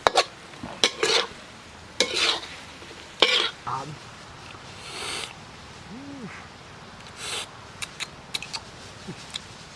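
A utensil scraping and clinking against a pot or dish, in several strokes during the first few seconds, then a few short sharp clicks near the end.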